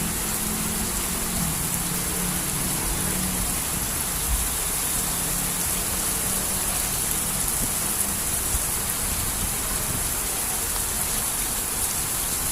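Heavy rain pouring down, a steady even hiss. A low hum fades out in the first few seconds.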